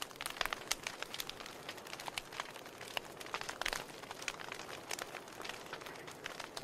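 Wood fire crackling: burning logs give off irregular sharp pops and snaps, many per second, over a soft steady hiss.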